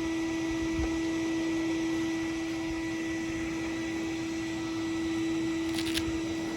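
A steady hum at one constant pitch, like a small motor running, with a brief rattle near the end.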